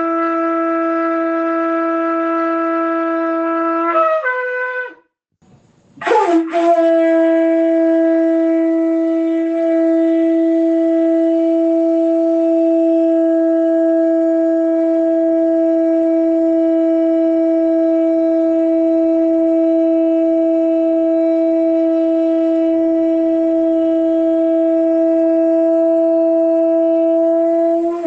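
A shofar blown with a steady held note that breaks upward to a higher pitch about four seconds in and stops. After a short gap a new blast rises into the same note and is held steadily for about twenty-two seconds before cutting off.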